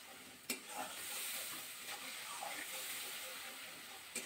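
Spice paste with grated tomato sizzling faintly in oil in a metal kadai as it is fried down, while a spatula stirs it, with a couple of short scrapes or knocks of the spatula against the pan, about half a second in and near the end.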